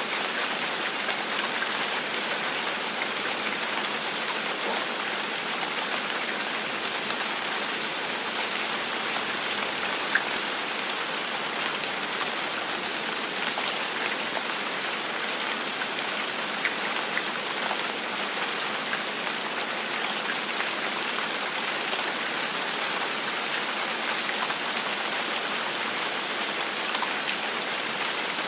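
Steady gentle rain falling on a surface, an even hiss with scattered individual drop ticks, one a little louder about ten seconds in.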